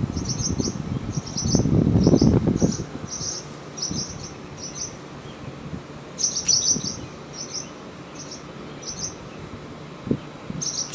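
Nesting birds giving short, high chirping calls about twice a second, the alarm calls of birds defending their nest against a person, with a quick flurry of calls about six seconds in. A low rustle about two seconds in.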